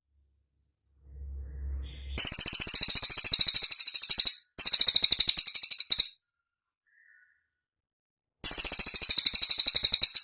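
Cililin bird singing: three long, very fast, high-pitched trills of rapidly repeated notes, the first about two seconds in and the last near the end, with short silences between. A faint low rumble comes just before the first trill.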